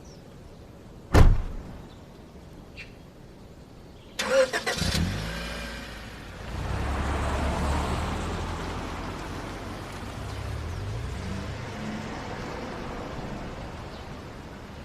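A single loud thud about a second in. Then a car engine cranks and starts with a rapid ticking burst, and keeps running with a low rumble that swells briefly and slowly fades.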